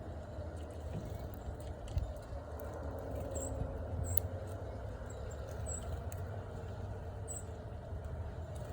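A few short, high chip calls from small birds, scattered over several seconds, over a steady low rumble and a few light clicks.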